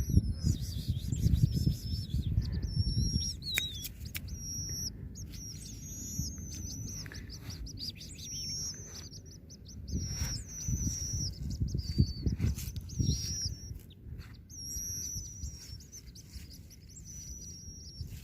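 Nestling birds giving repeated high, thin begging chirps as they are hand-fed. Low rumbling handling noise comes and goes, strongest near the start and around the middle.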